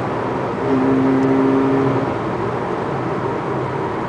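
Car engine and road noise heard inside the cabin at highway speed, a steady hum over a rushing haze. From just under a second in, a steady humming note grows louder for about a second, then settles back.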